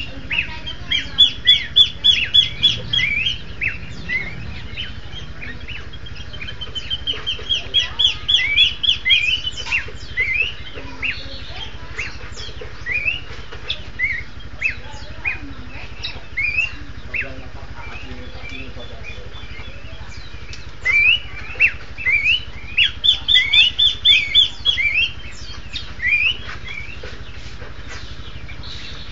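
Horsfield's babblers (pelanduk semak) singing in duet, in full song: bouts of fast, repeated clear whistled notes, loudest about a second in, again around seven to ten seconds, and from about twenty-one to twenty-six seconds, with scattered single notes in between. A steady low hum lies underneath.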